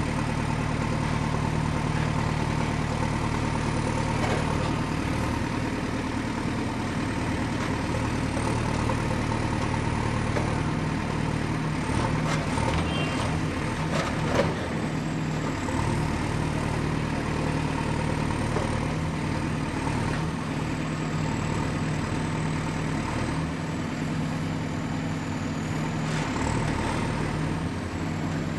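Excavator's diesel engine running steadily with a low, even hum. A few knocks come around the middle, the loudest about halfway through.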